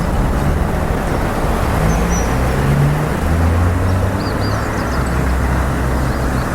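Steady rumble of road traffic, with faint high-pitched chirps of small birds a few times over it.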